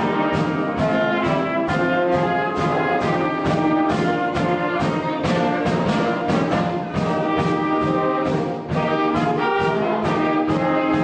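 Concert band playing, brass to the fore with trumpets and trombones over woodwinds, to a steady percussion beat.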